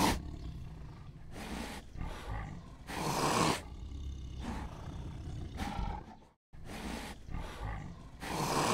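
Tiger roaring in a series of short calls, the loudest near the start, about three seconds in and near the end, with weaker calls between. The sound drops out briefly about six and a half seconds in.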